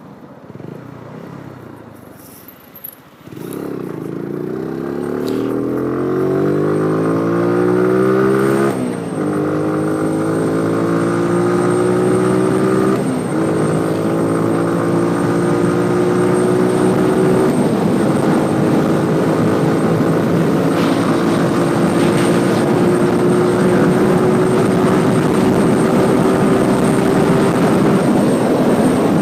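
Motorcycle engine pulling away and accelerating hard about three seconds in, its pitch climbing through each gear with three upshifts, then holding a steady cruise.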